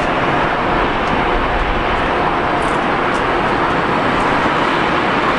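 Flåm Railway passenger train running along the track, a steady rumble and rush of wheels on rails and moving air heard from inside the carriage.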